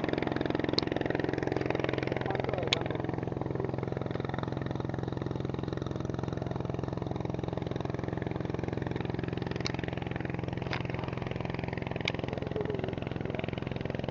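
Small engine running steadily at an even idle, with a few faint sharp clicks.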